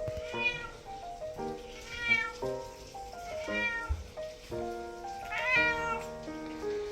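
Domestic cat meowing four times, each call rising then falling in pitch, over background music.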